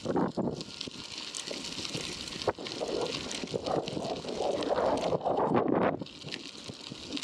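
Wind buffeting the microphone during a bicycle ride, gusting unevenly under a steady hiss, with one sharp click about two and a half seconds in.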